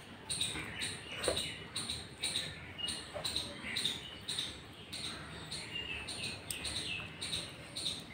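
Close-up wet chewing and lip-smacking of a mouthful of soft khichdi, about two smacks a second.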